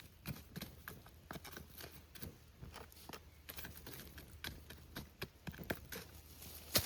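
Irregular crackling and snapping of dry forest litter, a few sharp clicks a second, with one louder snap near the end.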